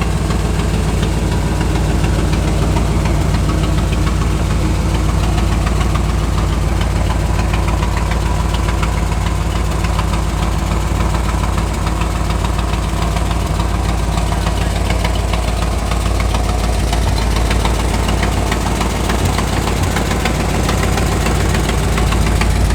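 A car engine idling steadily close by, a deep, even drone that does not change.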